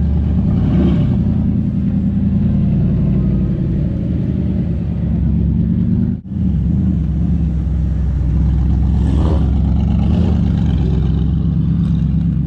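Car engine running steadily at low revs, a deep even drone, with a brief break about six seconds in.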